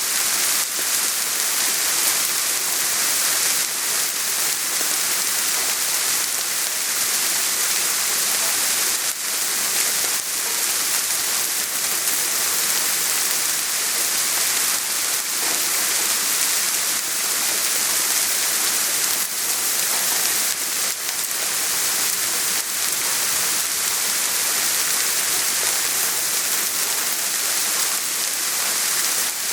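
Steady soft rain falling, an even high hiss with scattered drop ticks.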